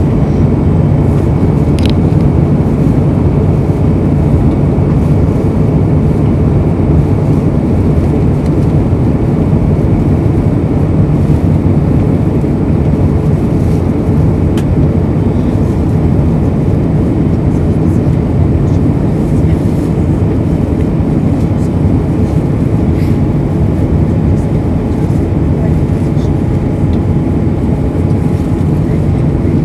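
Airbus A320 cabin noise in flight: a loud, steady rumble of airflow and engines, heaviest in the low range, with no change in level.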